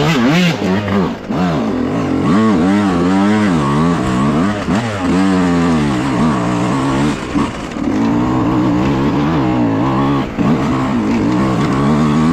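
Dirt bike engine under way on a trail, its revs rising and falling repeatedly as the throttle is worked, holding steadier near the end.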